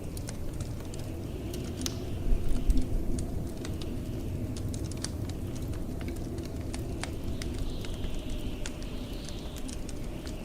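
Wood fire crackling, with scattered sharp pops and snaps over a steady low rumble of blizzard wind. A faint wind hiss swells and fades now and then.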